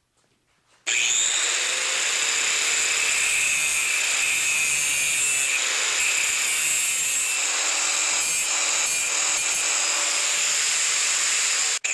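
A power tool starts up about a second in and runs steadily on the frame's steel tubing, a loud, even, high-pitched noise that cuts out for an instant near the end.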